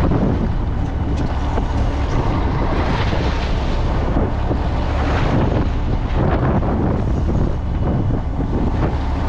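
Fishing boat's engine running steadily, with wind buffeting the microphone; the rush of wind swells a few times.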